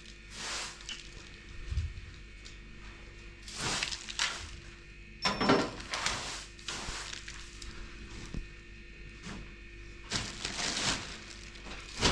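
Irregular scraping and knocking sounds, with a low thump about two seconds in and a louder sharp crunch about five seconds in.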